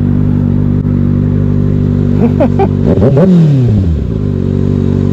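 Sport motorcycle engine idling steadily. About three seconds in, a louder vehicle engine revs past, its pitch falling over about a second.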